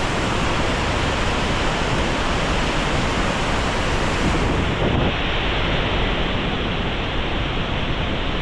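Steady roar of the Devil's Throat waterfall at Iguazú Falls, a huge volume of water plunging, heard as an even rushing noise. About five seconds in, its highest hiss drops away.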